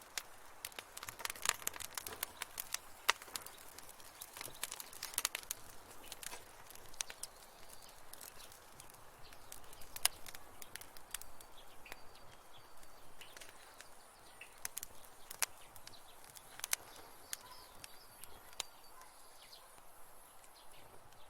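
Wood fire crackling, with irregular sharp pops that come thickest in the first few seconds and more sparsely after, over a soft steady hiss.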